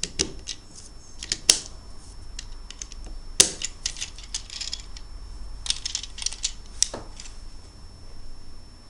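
Lego bricks and wheel pieces clicking and snapping together, with plastic parts tapping and rattling as they are handled: irregular sharp clicks, the loudest snaps about a second and a half in, about three and a half seconds in, and near seven seconds.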